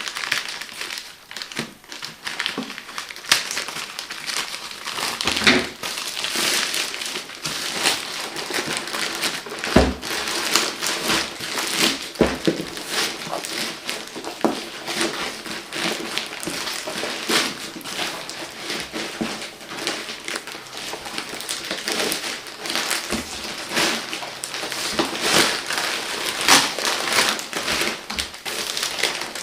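Plastic packaging being handled and unwrapped, crinkling and crackling continuously with many small clicks.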